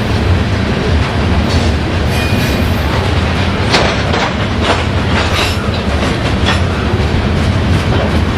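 Train rolling past with a steady heavy rumble, its wheels clicking over rail joints in a quick run through the middle.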